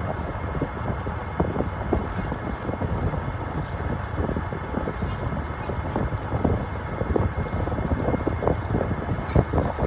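Passenger ferry underway: a steady engine and water drone, with wind buffeting the microphone in irregular gusts.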